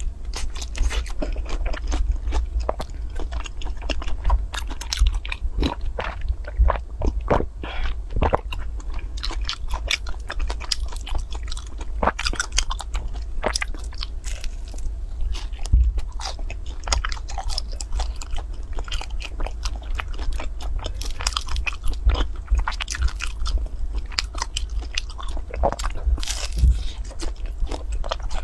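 Close-miked mouth sounds of a person biting and chewing a soft, chewy translucent rice-type cake coated in crushed peanuts and syrup: a dense, uneven run of short sticky clicks and small crunches.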